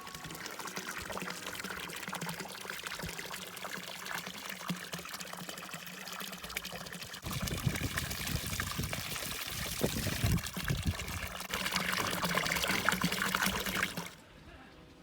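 Running water trickling and splashing, with a dense crackle of small drops; it shifts in character twice and cuts off abruptly near the end.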